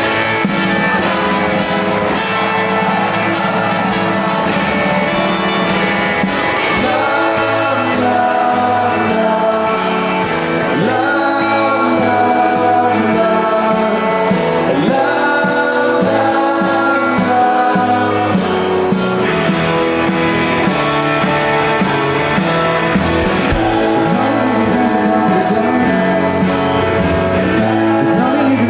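Rock band playing live on stage, with electric guitars and singing over a steady full sound.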